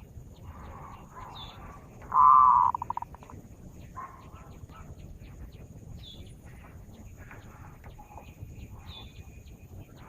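Zebra dove (perkutut) decoy call: one loud rolling coo about two seconds in that breaks into a quick run of fading notes, among softer cooing and chirping of other small birds.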